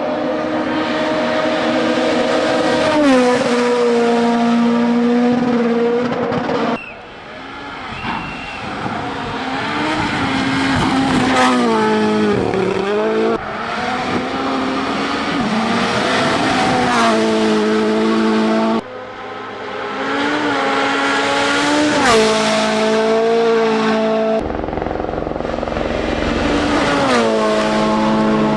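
Rally1 rally cars' turbocharged four-cylinder engines at full throttle. The revs climb and drop suddenly in steps as they shift gear, over loud road and tyre noise, in several short passes cut one after another.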